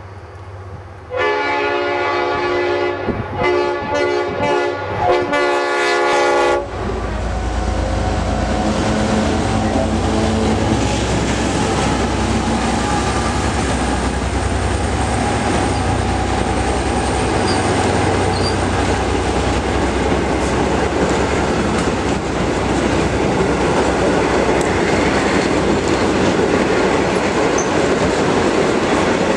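V/Line N class diesel-electric locomotive sounding its multi-note horn in several blasts for about five seconds, then running past at speed with a low engine rumble, followed by its passenger carriages rolling by with a steady rush of wheel and rail noise.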